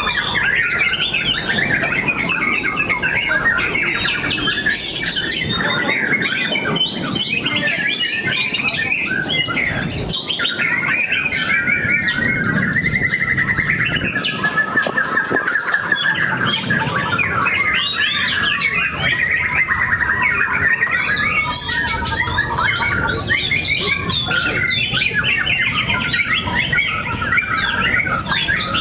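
White-rumped shamas (murai batu) singing without pause, several birds' rapid, varied phrases overlapping.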